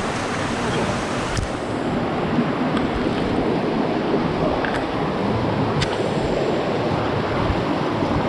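Steady rushing of water from a nearby waterfall, with a few faint clicks.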